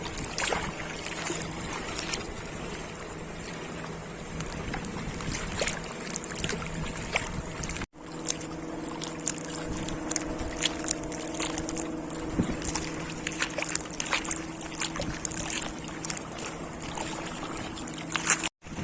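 An engine running with a steady hum and scattered sharp clicks over it. The sound drops out briefly twice, about eight seconds in and near the end.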